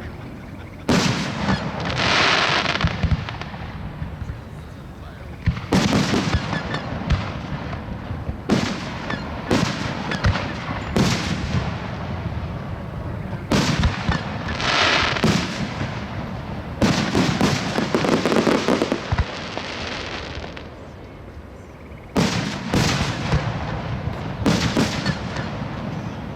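Aerial fireworks shells bursting in an irregular series of sharp bangs, some in quick clusters of two or three. Several bangs are followed by a second or so of hissing crackle.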